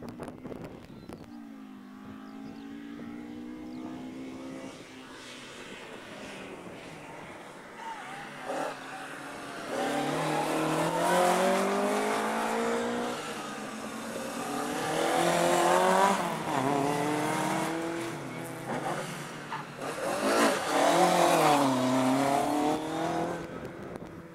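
Rally car engine revving hard out of sight, its pitch climbing and dropping repeatedly with the gear changes and throttle. It grows much louder about ten seconds in as the car comes closer, and is loudest near the middle and again near the end.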